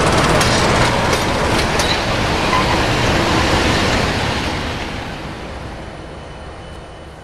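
Railway passenger coaches rolling past close by, the wheels clicking over rail joints a few times in the first two seconds. The rolling noise then fades steadily as the train moves away.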